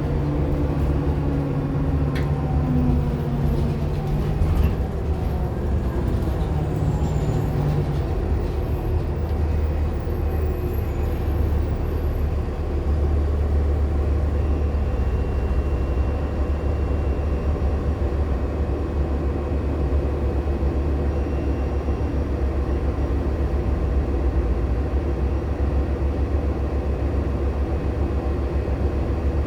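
Inside a 2014 Nova Bus LFSA diesel-electric hybrid bus under way: a steady low drone from its Cummins ISL9 diesel and driveline, mixed with road noise. In the first few seconds a whine falls in pitch, and a faint high steady tone comes in near the middle.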